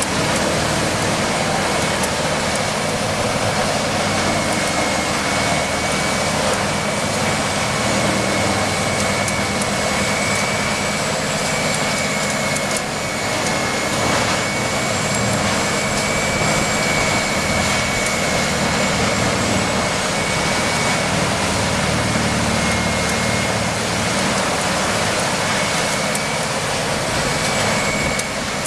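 A heavy engine-driven machine running steadily under load, a loud even rushing noise with a steady high-pitched whine over it.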